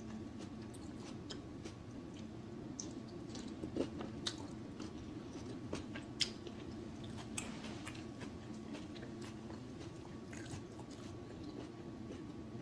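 Close-miked chewing with wet smacking and clicking mouth sounds, a few louder smacks near the middle, over a steady low hum.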